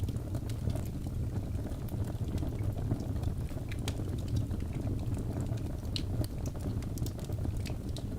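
Log fire burning in a fireplace: a steady low rumble of flames with frequent irregular crackles and pops from the burning wood.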